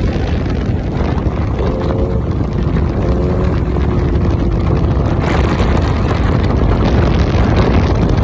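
Superbike ridden at speed: engine noise mixed with heavy wind rush on the microphone, loud and steady, with a short faint tone about two seconds in and again around three seconds in.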